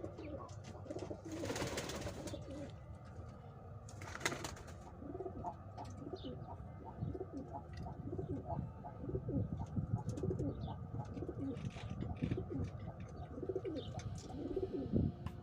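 Pigeons cooing, several low coos overlapping throughout. Two brief rushing noises stand out about one and a half and four seconds in.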